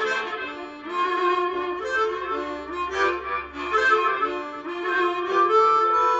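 Harmonica playing a blues melody between sung lines, one note after another in a changing line.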